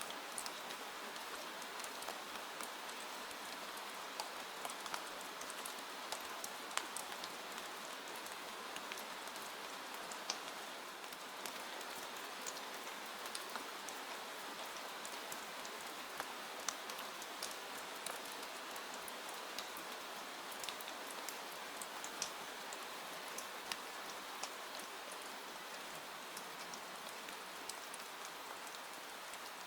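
Steady rain falling, an even hiss with many scattered sharp clicks of drops throughout.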